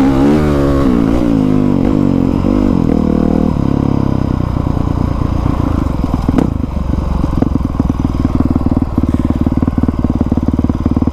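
Honda CRF450R's single-cylinder four-stroke engine, its revs rising and falling for the first few seconds, then settling into a steady, low, fast putter. A single knock about six and a half seconds in.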